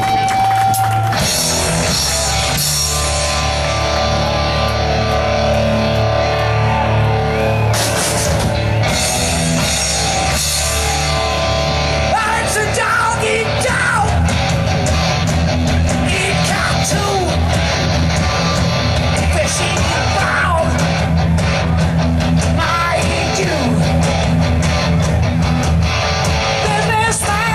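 A live rock band playing loud, with electric guitar, bass and drums, and singing.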